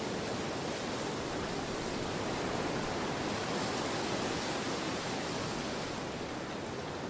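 Storm wind blowing in a steady rush, swelling slightly midway and easing a little near the end.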